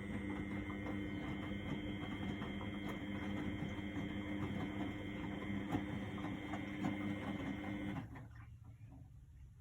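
A 1999 Miele Novotronic W828 front-loading washing machine runs with a steady motor hum and whine, tumbling the wash. The hum cuts off suddenly about eight seconds in, leaving faint ticks.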